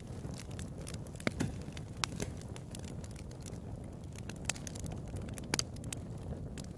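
Wood fire in a fireplace crackling, with irregular sharp pops over a low steady rumble of the flames; the loudest pops come about a second in and near the end.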